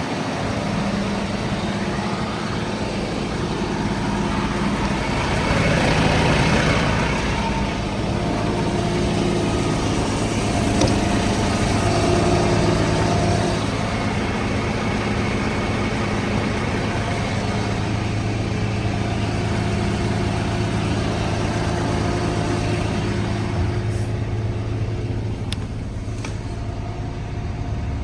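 Volvo FH 280 truck's diesel engine idling steadily, swelling briefly a few seconds in and again near the middle.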